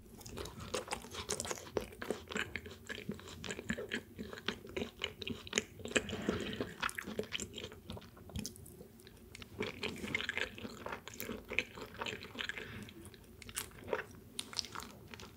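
Close-miked chewing of nigiri sushi: irregular small mouth clicks and smacks as raw fish and rice are chewed and swallowed.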